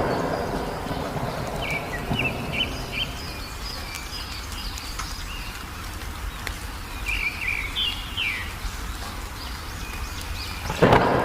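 Songbird chirping in short, quick phrases over a steady low rumble of rain, as in a bird lure (pancingan) track. A sudden loud thunderclap breaks in near the end.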